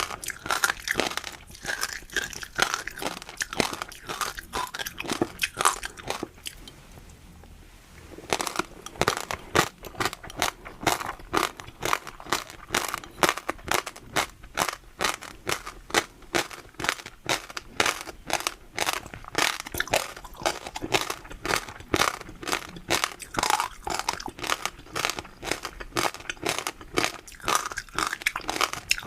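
Close-miked chewing of crunchy food, a fast run of crisp crunches with a brief pause of about two seconds partway through.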